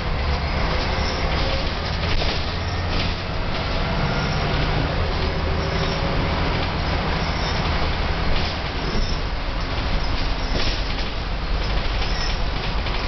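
Volvo B10M Mk II bus running under way, heard from inside the saloon: a steady engine drone with a faint whine from the ZF automatic gearbox and body noise.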